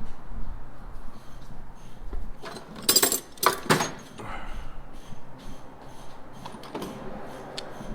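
Metal hand tools and sockets clinking and clattering, with a few louder clanks about three seconds in and light ticks after.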